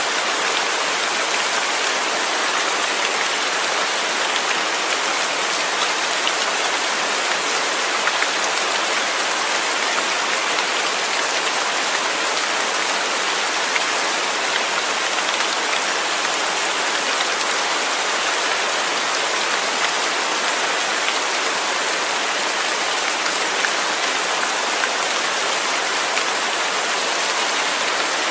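Steady rain falling, an even hiss of many small drops with no let-up or change.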